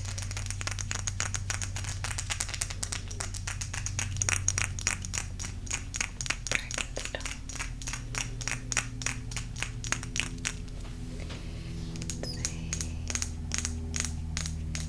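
Quick, rapid tapping on golden crystal stones, dozens of sharp clicks a second that thin out to sparser taps about eleven seconds in. A low steady hum runs underneath.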